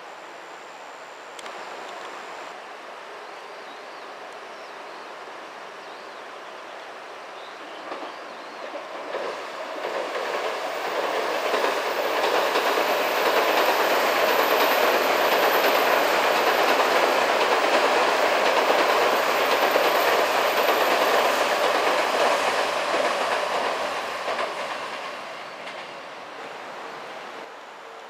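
Odakyu electric train crossing a railway bridge: it draws near from about eight seconds in, runs loud past for some twelve seconds, then fades near the end, with wheels clattering over the rail joints.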